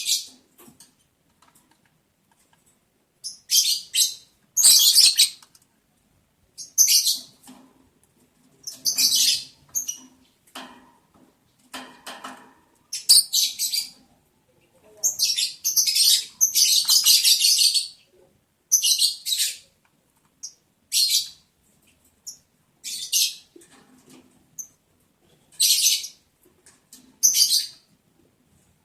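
Lovebirds chirping in short, shrill bursts at an irregular pace, with brief silences between calls and a longer run of calls about halfway through.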